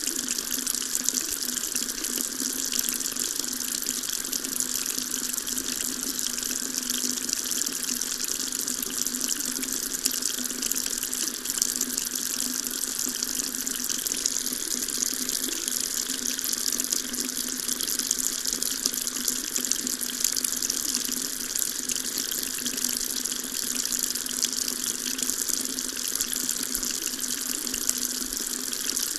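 Water running steadily from a tap into a sink, an even hiss with no changes.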